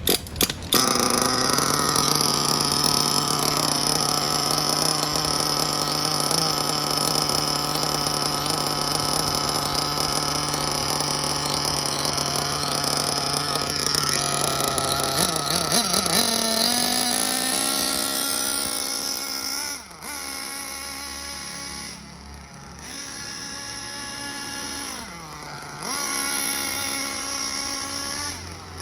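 Small nitro engine of a Hobao Hyper VS RC buggy running during break-in: a steady, high-pitched buzz for about half the time, then dropping in pitch and level, with the pitch dipping and rising again a few times.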